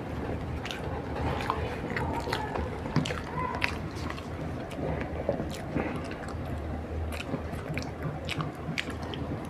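A person chewing soft food close to the microphone: irregular wet smacks and small mouth clicks.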